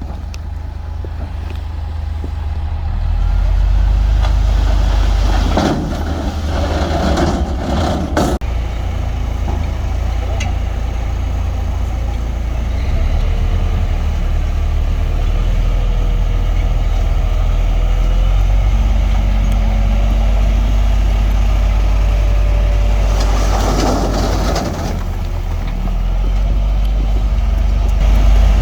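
Heavy diesel engine of earthmoving machinery running steadily under load. Twice the engine rumble is joined by a few seconds of louder rushing, grinding noise.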